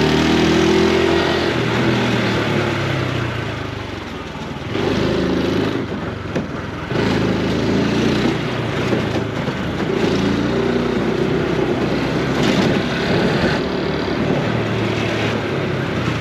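Honda Super Cub C125's single-cylinder four-stroke engine and exhaust while riding, the engine note rising and falling with the throttle: it eases off about four seconds in, picks up again a second later, and eases again near the end.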